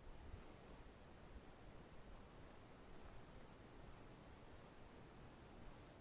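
Near silence: faint outdoor background hiss with a soft low rumble and a faint, regular high ticking.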